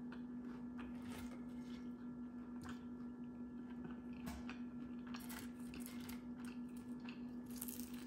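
Close-up chewing and crunching of crispy fried chicken wings: scattered soft crackles and mouth clicks over a steady low hum.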